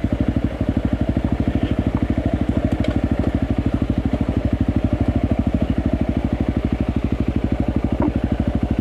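Enduro motorcycle engine ticking over at low revs, with even, rapid firing pulses at a steady rate.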